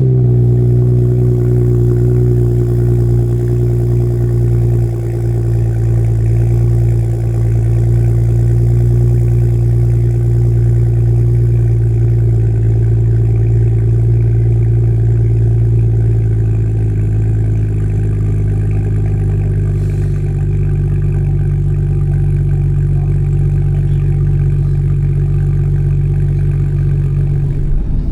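BMW 435i's 3.0-litre turbocharged inline-six running at a steady idle just after a cold start.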